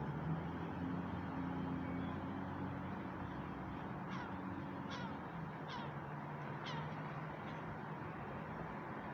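Background city ambience with a steady low hum, and a bird calling five times in quick succession, short falling calls a little under a second apart.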